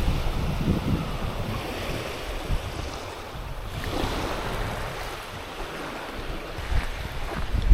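Surf washing onto a sandy beach, with wind buffeting the microphone in low rumbling gusts, heaviest near the start; a wave swells and washes in about four seconds in.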